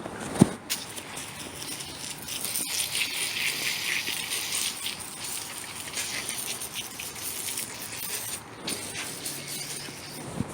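Aerosol can of no-rinse evaporator cleaner spraying in one long hiss of about six seconds, after a short knock near the start.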